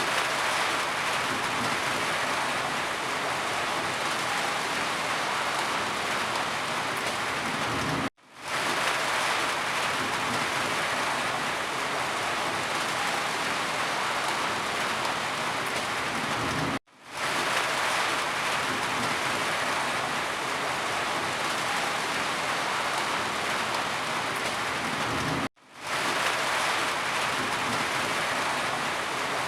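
Steady, heavy rain falling. The sound cuts out for an instant and fades back in three times, about every nine seconds, the seams of a looped rain recording.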